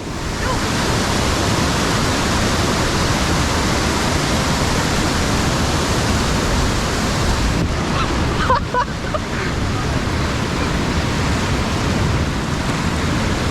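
Creek rapids rushing: a loud, steady hiss of tumbling water, with a faint voice briefly about eight seconds in.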